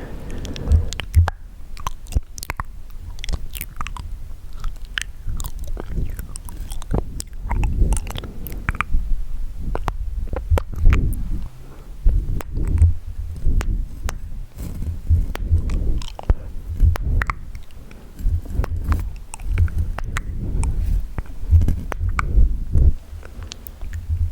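Wet mouth sounds made close to the microphone: a dense, irregular run of clicks and smacks of the tongue and lips.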